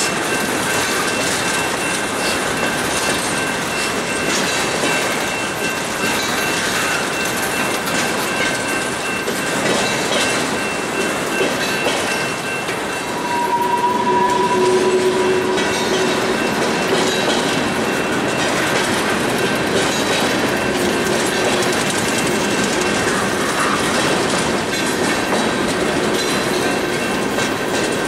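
Freight train of boxcars and autoracks rolling past at trackside, steel wheels clacking over the rail joints, with a faint steady high squeal and a brief louder squeal about halfway through.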